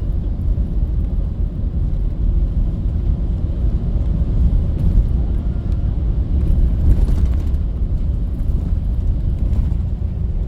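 A bus in motion: a steady low rumble of engine and road noise.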